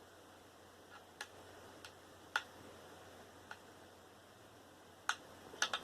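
Scattered small clicks and taps from hands handling parts of a dismantled desktop computer. The loudest comes about two and a half seconds in, and a quick cluster of clicks comes near the end.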